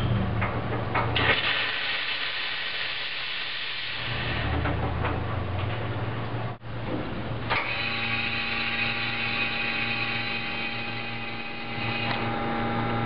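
La Cimbali M30 Classic espresso machine running: a hiss for a few seconds, then a steady motor hum. After a brief break about six and a half seconds in, it settles into a steady whine over the hum.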